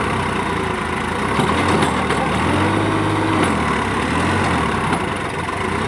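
Sonalika tractor's diesel engine running, its note rising briefly and settling again near the middle.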